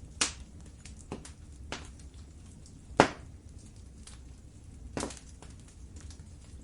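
Wood fire in a fireplace crackling, with faint ticks over a low rumble and five sharp pops, the loudest about three seconds in.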